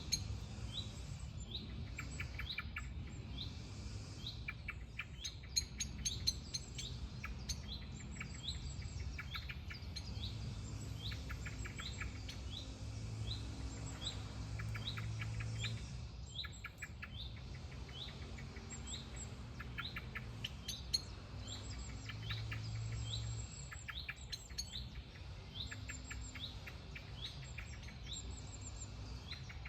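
Several songbirds singing outdoors. One bird repeats a short, rising chirp about twice a second throughout, while others add bursts of rapid trills, over a steady low rumble.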